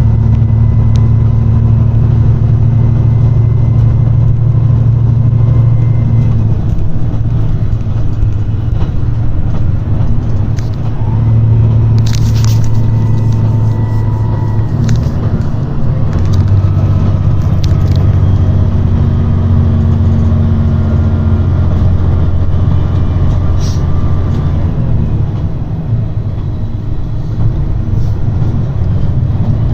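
Diesel railcar of a JR Shikoku 2700 series express running at speed, its underfloor diesel engine droning loudly under load with the engine note shifting a few times. A few sharp clicks and a brief high squeal about twelve seconds in, from the wheels on the track.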